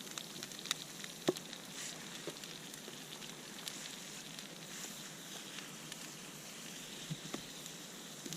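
Chopped greens frying in butter in a pan over a campfire: a steady sizzle with scattered sharp crackles and pops, the loudest about a second in.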